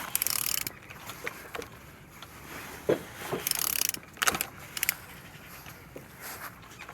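Opel A14XER 1.4-litre petrol engine being turned over by hand with a tool, with metallic ratchet-like clicks and two short rasping bursts, one at the start and one about three and a half seconds in. The engine turns freely through its compression strokes and is not seized.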